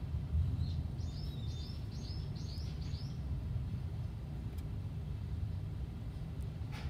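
A bird calling a quick run of about eight short, high, downward-sweeping chirps, starting about a second in. Underneath is a steady low rumble of outdoor background noise.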